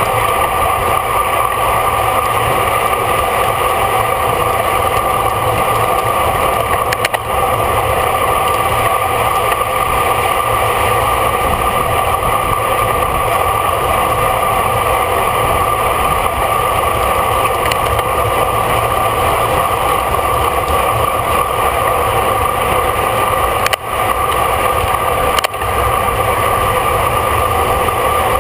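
Steady wind and road noise on a bicycle-mounted camera riding at race speed, with a constant hum over a low rush. The level dips briefly three times.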